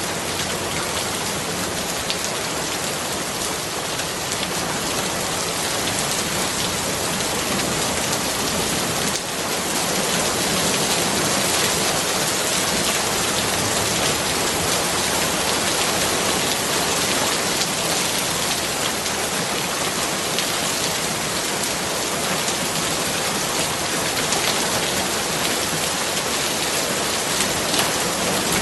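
Steady rain falling on surfaces, a dense even hiss of drops, getting a little louder about nine seconds in.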